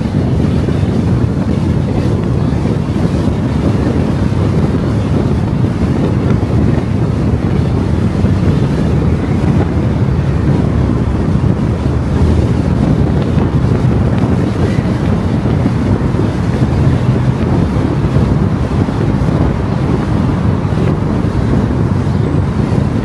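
Steady low rumble of tyre and wind noise from a car driving along a road at a constant speed.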